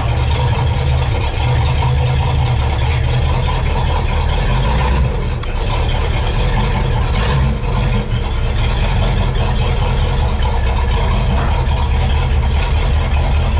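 An old Ford car's engine running steadily at low speed, a loud low rumble.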